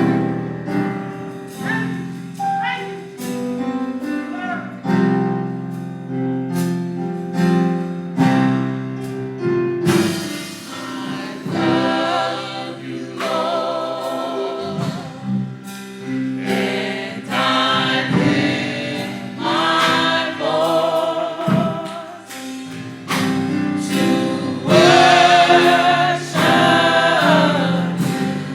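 Gospel music from a church choir and band: sustained keyboard chords over a steady beat, with the choir coming in about ten seconds in and singing with vibrato.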